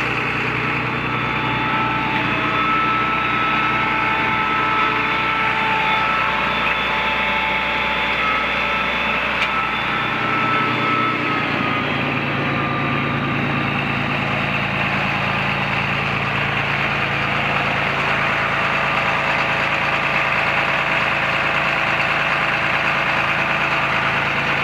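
John Deere 8300 tractor's six-cylinder turbo diesel running steadily, its note shifting slightly about halfway through.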